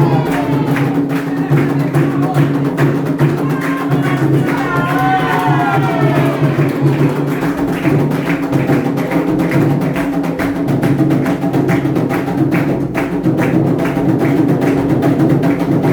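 Candomblé ritual music: atabaque drums, the rum among them, played in a dense, steady rhythm, with voices singing a sliding melodic line about four to seven seconds in.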